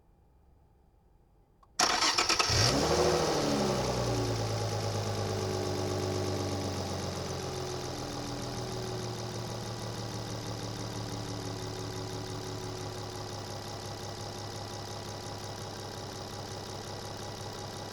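Nissan Skyline V36 GT-Four's V6 engine starting about two seconds in. It flares up in revs as it catches, then settles into a high idle that slowly drops over several seconds, heard from a microphone inside the engine bay.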